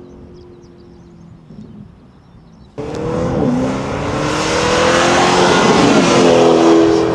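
Lamborghini Urus twin-turbo V8 heard through a titanium valved catback exhaust: a quieter engine note that settles, then about three seconds in the sound suddenly gets much louder as the engine pulls hard under acceleration, its pitch climbing.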